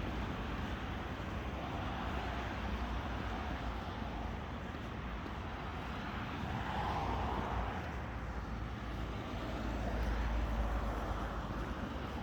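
Steady outdoor background noise, with a low rumble that swells about ten seconds in.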